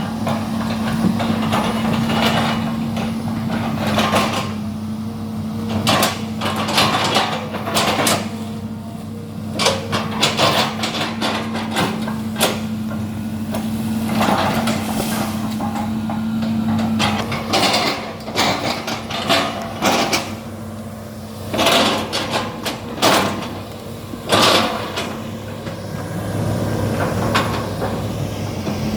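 Excavator's diesel engine running steadily under repeated irregular knocks and cracks as its bucket chops up oil palm trunks.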